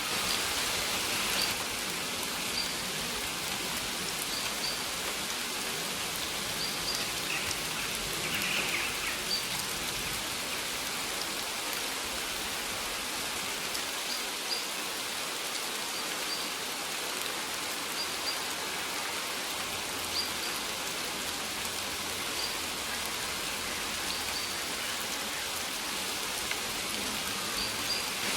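Steady rain falling, an even hiss, with faint short high bird chirps every second or two.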